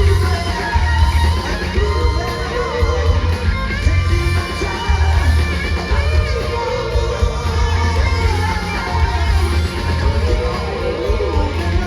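Live rock band playing at full volume: electric guitar lines over bass and drums with a steady heavy beat.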